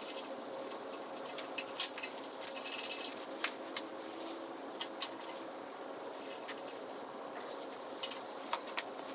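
Hand tools and metal exhaust hardware clinking during work on a motorcycle: scattered, irregular light clicks, with a brief rustle about two and a half seconds in.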